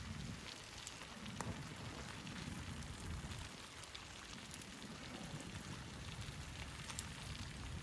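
Steady snowstorm noise: a gusting low rumble under an even hiss, with a few faint scattered ticks.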